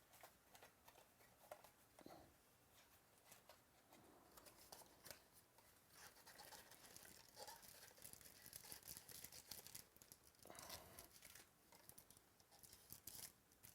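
Faint crinkling and tearing of foil card-pack wrappers, with small rustles and clicks of cardboard and cards being handled, busiest in the second half.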